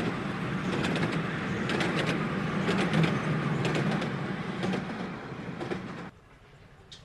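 Miniature steam train running along the track, a steady rumble broken by irregular wheel clicks; it cuts off suddenly about six seconds in, leaving only faint clicks.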